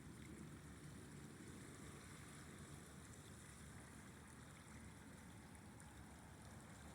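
Faint, steady rushing of a flowing river, with a low rumble.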